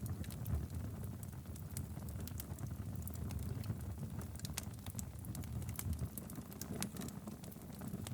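Wood fire burning steadily in a fireplace, with a low rumble under frequent, irregular sharp crackles and pops.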